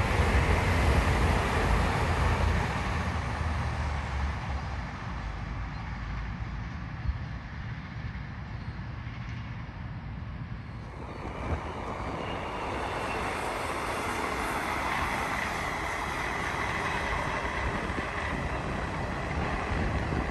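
Train running by on the line: a steady rumble with rail noise, easing off towards the middle and building again in the second half.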